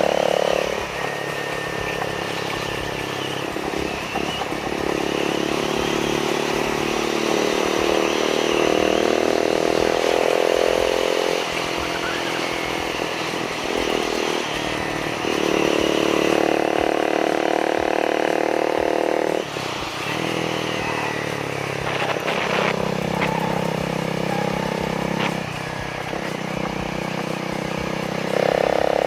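Honda Rebel 250's single-cylinder engine running through an Over Racing SS Megaphone slip-on muffler. The revs rise and fall again and again, with short drops in sound between the louder high-rev stretches.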